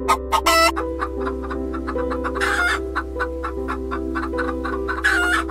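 Chickens clucking, with two louder calls about two and a half seconds in and again near the end, over background music of slow, sustained notes.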